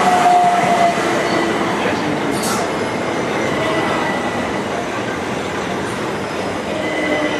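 Electric passenger train running through the station with a steady rumble and a thin, high wheel squeal from the rails. There is a short hiss about two and a half seconds in.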